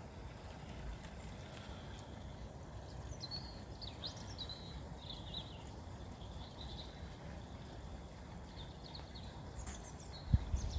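Small birds chirping in short, high, quick notes on and off, over a low rumble of wind on the microphone. A sudden low thump comes near the end.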